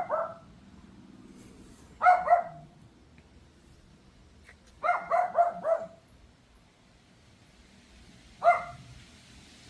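Pomeranian barking in short, high-pitched yaps, in groups of one to four quick yaps a few seconds apart.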